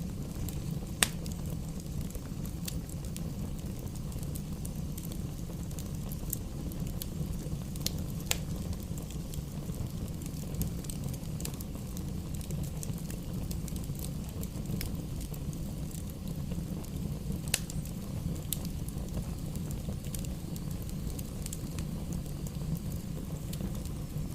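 Campfire burning: a steady low rumble of flames with scattered sharp crackles and pops, the loudest pops about a second in, around eight seconds and near eighteen seconds.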